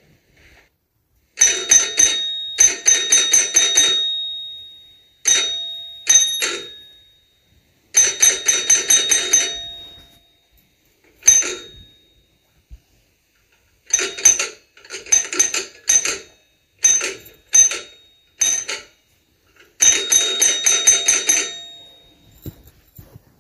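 Doorbell rung again and again in short and long rings, each ring a quick run of repeated strikes, with brief silences between the presses.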